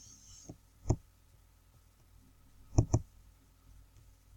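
Computer mouse clicking: a few sharp single clicks, then a quick double click about three seconds in.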